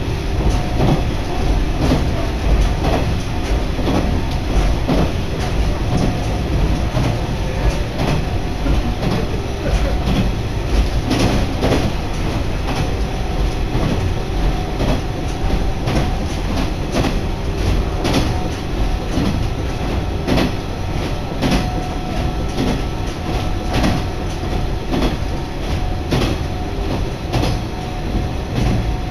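Cabin sound of a diesel railcar running along the Kansai Line: a steady rumble with irregular clicks of the wheels over rail joints and a faint steady hum.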